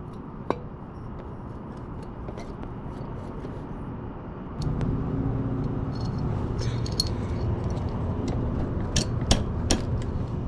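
A few light metallic clicks and clinks as small engine parts are handled during the pit bike top-end assembly, with two sharp taps close together near the end. Under them runs a steady low rumble that grows louder about halfway through.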